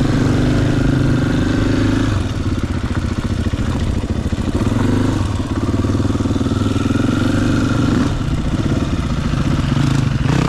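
Dirt bike engine running, with the throttle and engine note rising and falling several times.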